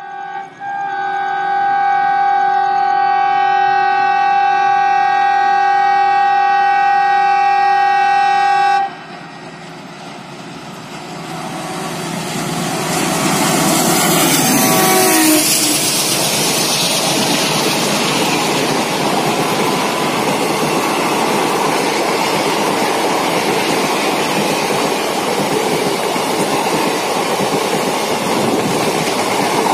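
A diesel locomotive's multi-tone horn sounds one long blast of about eight seconds and cuts off sharply. The train then runs past at speed: the locomotive's noise rises to a peak with a brief falling tone as it goes by, followed by the steady running of the coaches with wheels clattering over the rail joints.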